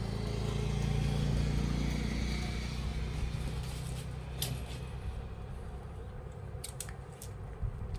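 A low engine hum that swells and then fades away over the first half, followed by a few light clicks.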